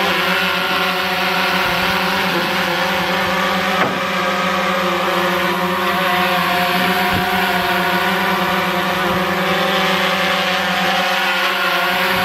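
DJI Phantom quadcopter hovering close by as it is brought in to land by hand, its propellers giving a loud, steady buzzing whine. A brief knock about four seconds in.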